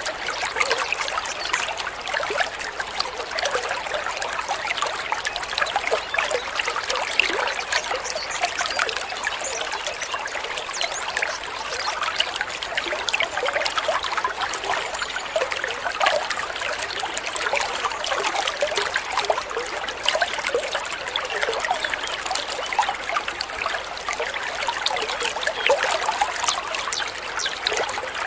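Water trickling and splashing steadily over stones in a small stream, a dense bubbling babble with no pauses.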